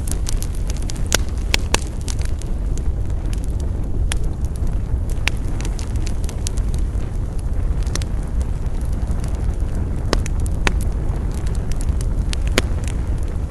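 Wood campfire burning: a steady low rumble of flames with sharp crackles and pops from the burning wood at irregular intervals.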